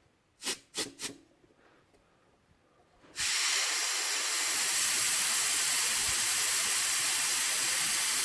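Compressed air from an air compressor's tank through an air blow nozzle: three short blasts, then about three seconds in a steady continuous hiss as the tank is bled down. The tank pressure is being let off so the pressure switch will cut the compressor back in.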